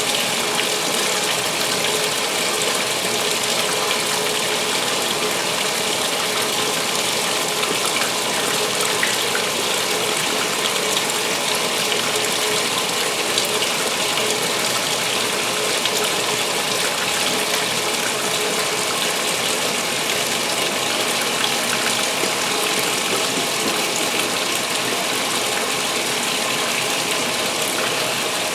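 2016 Speed Queen top-load washer in its main wash fill: water pouring steadily into the tub of towels, a constant rush with a faint steady hum.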